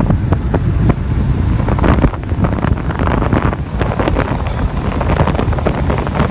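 Wind buffeting the microphone over a steady low rumble, with scattered sharp clicks and knocks.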